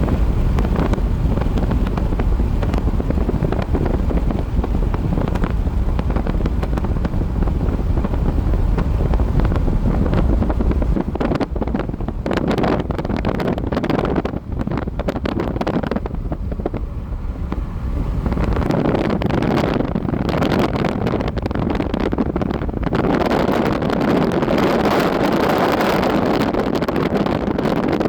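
Wind blowing in gusts, with a heavy low rumble of wind buffeting the microphone. It thins out somewhat around the middle and swells again toward the end.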